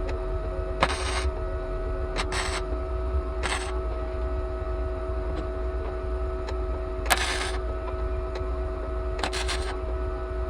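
Flux-core wire welder laying short bursts of weld on thin car-body sheet metal: about seven brief crackling bursts, irregularly spaced, over a steady hum.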